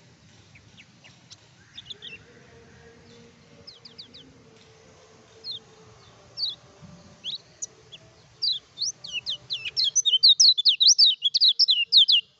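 Kecial kuning, a white-eye, singing: scattered high, quick chirps that build about eight seconds in into a fast, loud run of sharp chirps, which cuts off suddenly at the end.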